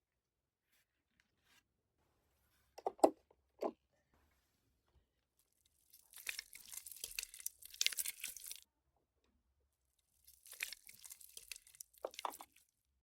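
Close-up handling of Play-Doh modelling clay being squished and pulled apart: two short soft knocks about three seconds in, then two stretches of crackly tearing noise.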